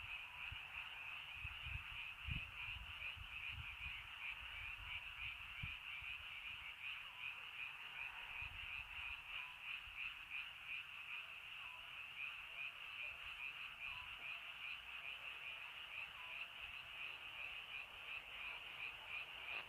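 Dense chorus of many frogs calling together in a steady, pulsing din. A faint single note repeats about every two seconds in the background, like the call of an Oriental scops owl, and there are a few low thumps in the first few seconds.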